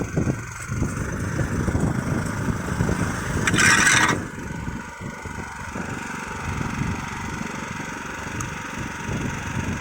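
Neva MB23 walk-behind tractor's engine running as it pushes snow with its front blade, with a brief loud hissing rush about three and a half seconds in.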